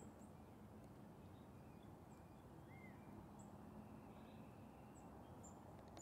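Near silence outdoors, broken by a few short, high-pitched bird chirps spaced through it and one softer whistled note midway.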